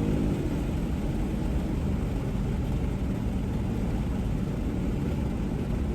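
Ford Mustang GT's 5.0 Coyote V8 with an MBRP race catback exhaust, heard from inside the cabin. The exhaust note drops in pitch and falls away about half a second in. After that there is a steady low rumble of exhaust and road noise at freeway cruising speed.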